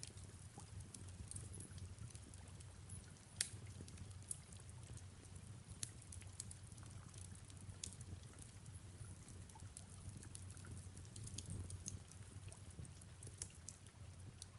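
Fireplace crackling, with sharp pops scattered irregularly throughout, the loudest about three and a half seconds in, over a low steady rumble and a soft hiss of rain.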